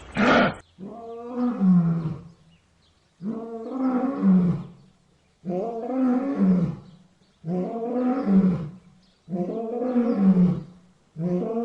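Big cat roaring: a regular series of long, low-pitched roars, one about every two seconds.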